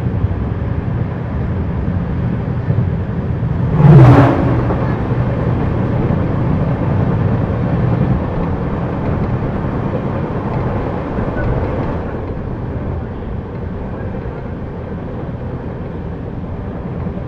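Running noise of the 17310 Vasco da Gama–Yesvantpur Express in motion: a steady low rumble, with one brief loud whoosh that falls in pitch about four seconds in. The rumble softens a little about twelve seconds in.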